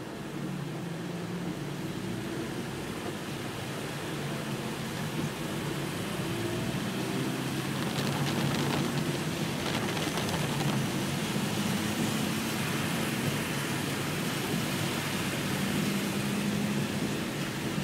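Heavy rain on a car's windscreen and roof, heard from inside the car, over a low hum of the car running in traffic. The rain grows louder over the first several seconds, then holds steady.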